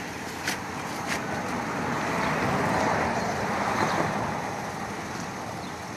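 A vehicle driving past, its tyre and engine noise swelling to a peak about halfway through and then fading. Two sharp clicks come in the first second.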